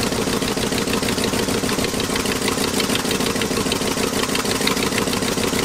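1974 Ford F350's 460 V8 idling steadily with a miss on one cylinder, caused by a cut spark plug wire. A second plug wire is being pulled off to test which cylinder is dead.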